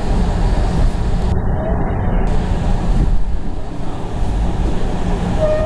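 Steady low rumble of a train running along the track, with wind noise.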